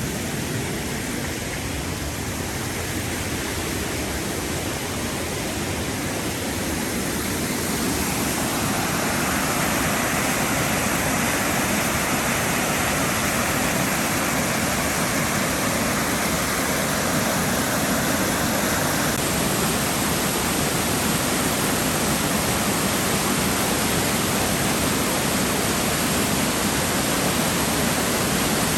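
Rushing water of a stream or cascade, a steady hiss, growing a little louder about eight seconds in.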